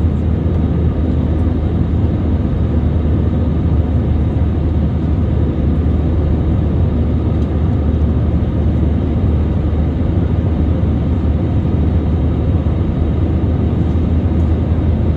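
Steady jet airliner cabin noise: engines and airflow heard from inside the passenger cabin, a loud, even noise with a strong low hum.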